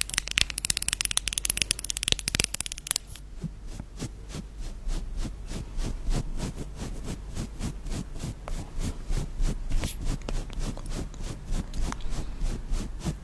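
Close-miked ASMR scratching and rubbing: about three seconds of dense, fast scratchy strokes, then an even rhythm of short rubbing strokes at about five a second.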